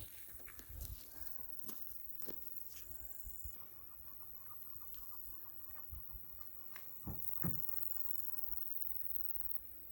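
Crickets chirping in a steady high-pitched trill, with scattered light thumps and rustles; a rapid run of chirp-like pulses sounds for a few seconds in the middle.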